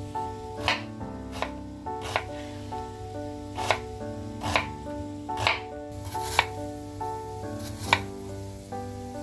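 Knife chopping on a cutting board in slow, even strokes, a little more than one a second, over soft background music.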